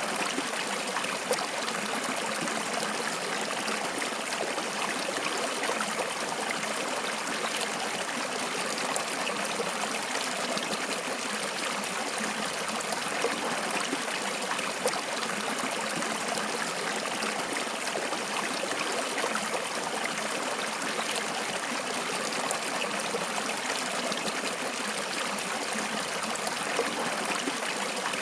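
Water flowing in a stream, a steady rushing and trickling with small irregular splashes.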